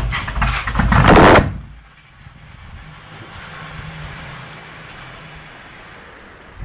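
Dodge car engine revving loudly for about a second and a half, then stopping abruptly. A much quieter, steady engine idle follows.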